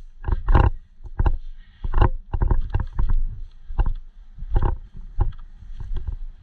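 Irregular sharp knocks and thuds, one to three a second, some in quick pairs.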